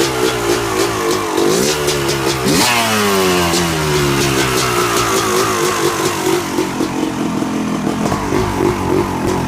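Yamaha YZ250 two-stroke dirt bike engine, freshly rebuilt with a new top end and crank seals, running. It is revved up sharply twice, the second time highest, about two and a half seconds in, falls back over the next couple of seconds, then settles into an uneven, wavering idle that the rider finds too low.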